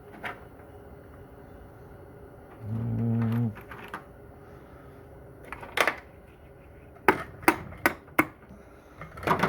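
Hammer blows on a stuck shaft in a Corvair Powerglide transmission, struck to drive it out: one blow a little past halfway, then four quick strikes and one more near the end. The shaft still does not come free. A brief low hum sounds about three seconds in.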